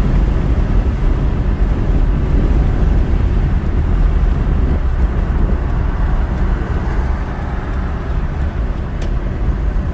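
Steady road and engine rumble inside a moving car, with a faint click near the end.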